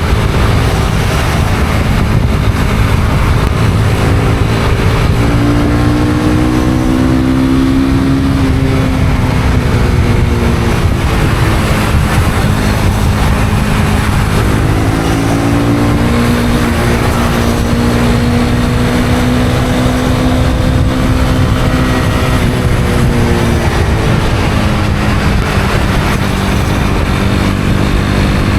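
Honda CB250R's single-cylinder engine running under way, its pitch rising and falling a few times with the throttle, over a steady rush of wind and road noise.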